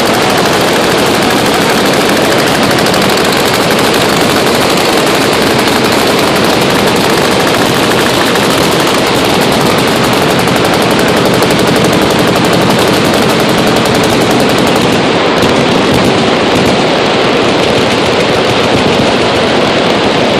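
Many machine guns firing at once: continuous overlapping automatic fire with no break, very loud throughout.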